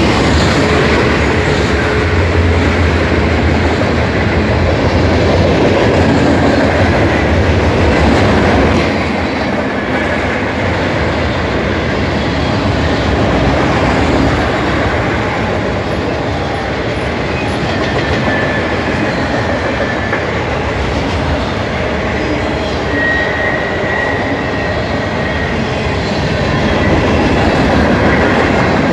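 Freight train cars rolling past close by: a loud, steady rumble and clatter of steel wheels on the rails. A faint high wheel squeal comes in briefly about two-thirds of the way through.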